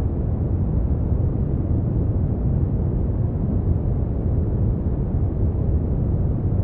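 Brown noise: a steady, deep rumbling hiss, heaviest in the low bass and falling away toward the treble, with no change over time.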